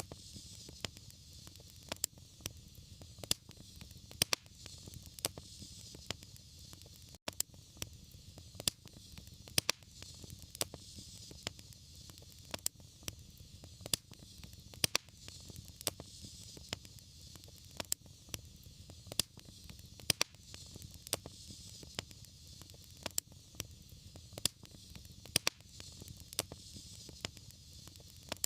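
Wood fire crackling: frequent sharp pops and snaps over a steady hiss and a low rumble of burning. The sound cuts out for a moment about seven seconds in.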